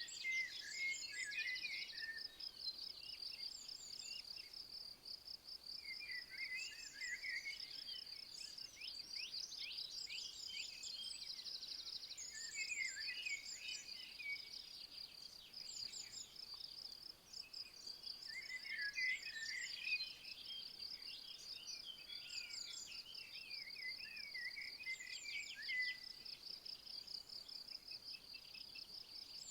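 A continuous high, rapidly pulsing insect trill, like a cricket or bush-cricket, with songbirds singing short chirping phrases on and off over it.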